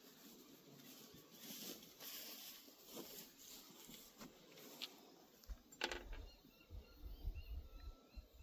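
Faint clicks and taps of small metal pump parts being handled while threadlocker is applied to their threads, the sharpest click about six seconds in. A few faint bird chirps can be heard behind it near the end.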